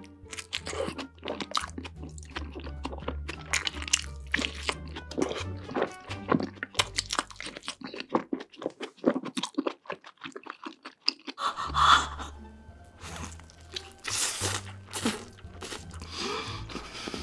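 Close-miked eating sounds: biting, crunching and wet chewing of a burger smothered in cheese sauce, over background music with a steady bass line that drops out for a few seconds in the middle.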